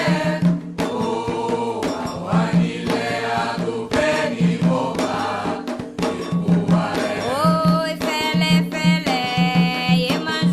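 Candomblé chant for Xangô: voices singing a sacred song over drums keeping a steady beat, the singing settling into long held notes in the second half.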